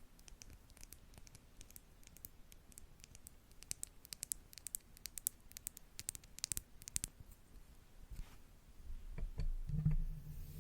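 Rapid light taps and bristly crackles of makeup brushes at a close, sensitive microphone, several a second. About eight seconds in they give way to a muffled low rubbing as a brush sweeps over the microphone itself.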